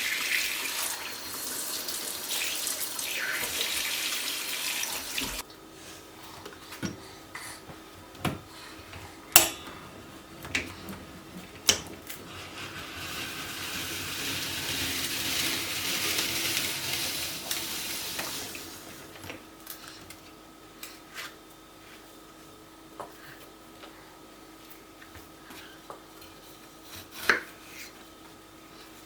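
Tap water running into a sink, cutting off suddenly about five seconds in, then dishes and cutlery clinking. The water runs again for several seconds midway, and a few more clinks follow, one louder near the end.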